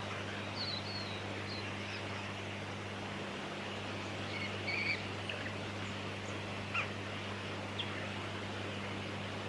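A few short, high bird chirps, scattered across the first half, over a steady background hiss and a low, steady hum.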